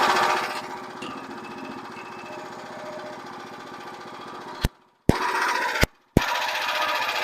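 Frontier portable bandsaw mill running, loud at first, then settling to a lower steady level about half a second in. In the second half the sound cuts out abruptly several times, from a faulty microphone.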